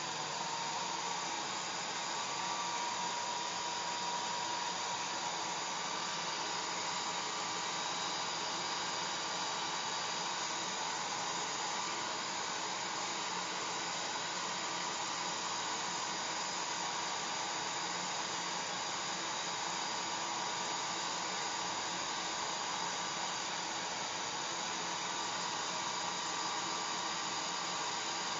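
Electric hair dryer running continuously: a steady rush of blown air with a faint motor whine.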